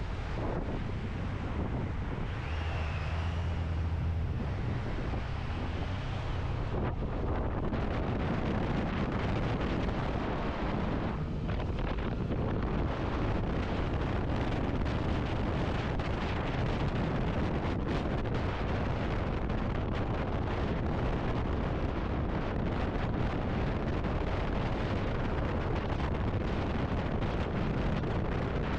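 Wind rushing over the microphone of a camera on a moving motorcycle, with the motorcycle's engine running underneath.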